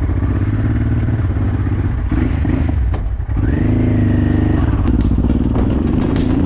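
Honda Transalp's V-twin engine running steadily, with a brief dip about three seconds in.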